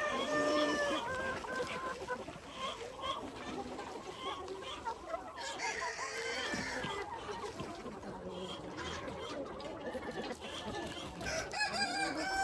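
A flock of free-range chickens clucking throughout, with a rooster crowing in long held calls at the start and again near the end.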